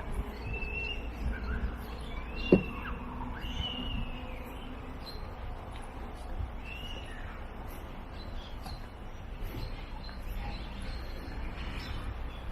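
Small birds chirping in short, arching calls, mostly in the first half, over a steady low rumble. A single sharp knock about two and a half seconds in is the loudest sound.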